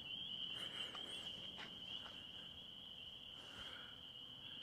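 Crickets trilling in a steady, continuous, high-pitched night chorus, with a few faint higher chirps about a second in.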